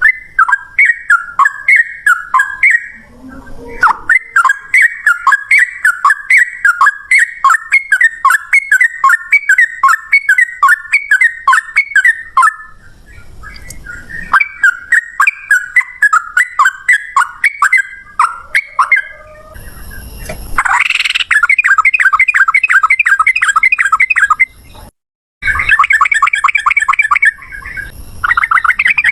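Yellow-vented bulbul (trucukan) singing its fast, rolling chattering song: runs of quick bubbly notes in repeated phrases, turning into a faster, denser trill about two-thirds of the way through, with a brief break shortly after.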